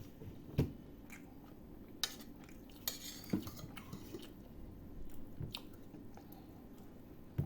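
Eating utensils clinking and scraping against a plate, a handful of sharp separate clinks with a short scrape in the middle.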